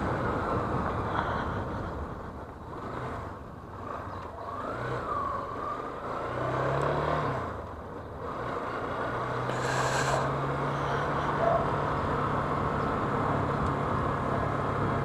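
Yamaha Fazer 250 single-cylinder motorcycle engine running under way, its pitch rising and falling about six to seven seconds in, then holding steady, under a steady rush of wind noise.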